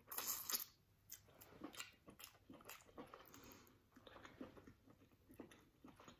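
Faint close-up eating sounds of king crab meat: chewing and lip smacking, with a louder bite in the first half second and soft scattered clicks after.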